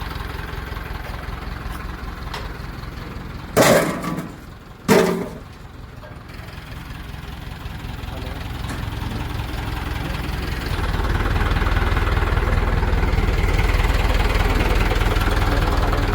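Heavy diesel engine running steadily, with two loud sudden bangs about a second apart early on; from about two-thirds of the way in, the engine speeds up and runs louder under load as the crane works.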